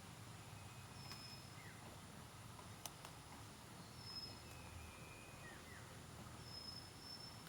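Faint forest ambience with a bird giving short, high, level whistled notes about every three seconds, each followed by lower, shorter notes. There is a single sharp click about three seconds in.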